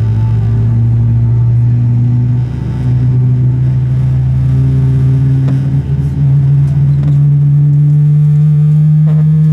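Boeing 777-300ER's GE90 jet engines heard from inside the cabin: a loud, steady low drone with a whine whose pitch steps up a few times as the engines spool up.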